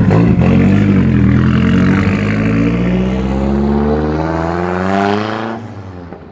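Modified Nissan car's engine accelerating hard, its pitch rising steadily for about five seconds, then falling away near the end as the car pulls off.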